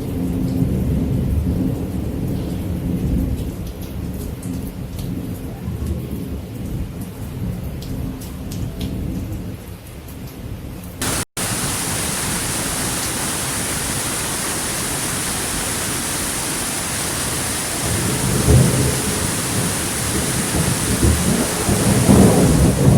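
Thunderstorm: low rolling thunder at first, then after a brief dropout about halfway through, a steady hiss of heavy rain with more thunder rumbling in near the end.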